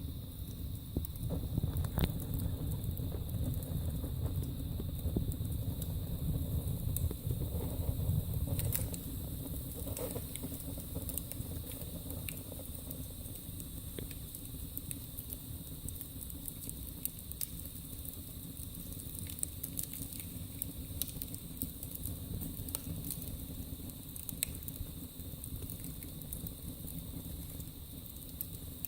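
Wood burning in a fireplace: a steady low rumble of the fire with scattered sharp crackles and pops. The rumble is stronger for the first nine seconds or so, then eases off while the crackling goes on.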